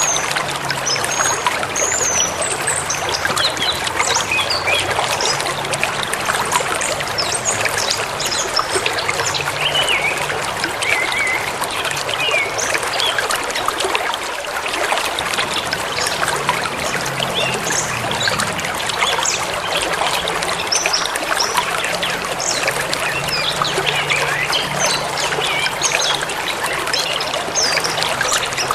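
A forest river babbling and trickling over stones, with songbirds chirping and whistling throughout.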